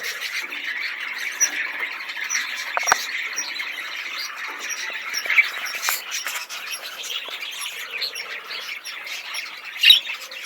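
Budgerigar chattering and warbling steadily inside its cage, with a few faint clicks and one loud squawk near the end.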